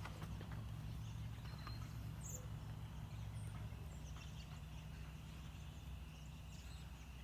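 Distant chatter of a huge flock of roosting birds, with scattered short high chirps, over a low steady hum.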